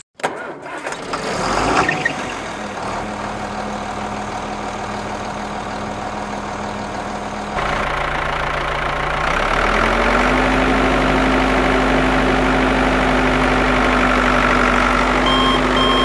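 An engine starting up and then running steadily. It gets louder about halfway through and its pitch steps up soon after. Short, evenly spaced beeps come in near the end.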